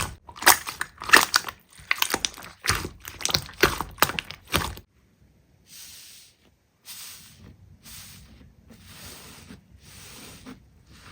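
Slime being pressed and squished: sharp crackling clicks for about the first five seconds, then an abrupt change to softer, quieter squishes about once a second.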